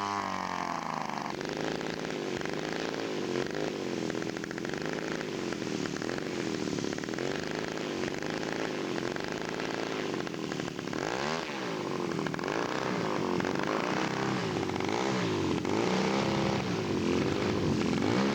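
Radio-controlled scale model airplane engine running in flight, a steady drone whose pitch falls in the first second and then rises and falls again and again as the plane passes back and forth.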